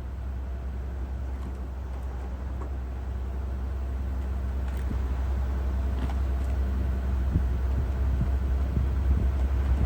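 Mercedes-Benz SL600's twin-turbo V12 engine idling with a steady low hum that grows slowly louder.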